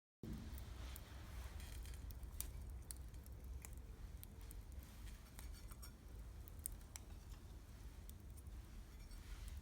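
Wood campfire crackling: scattered sharp pops and snaps over a low, steady rumble.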